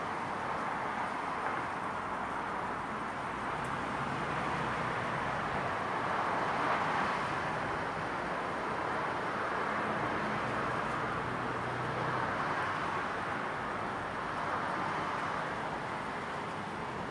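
Evening outdoor ambience of a residential street: a steady hum of traffic noise, swelling in the middle as a vehicle's engine passes, loudest about seven seconds in.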